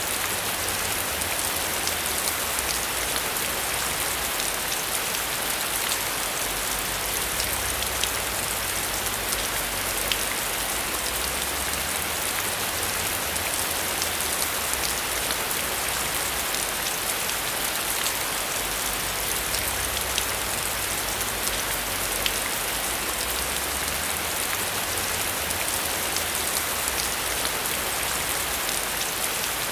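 Steady heavy rain: a dense, even hiss with many sharp ticks of drops striking a surface.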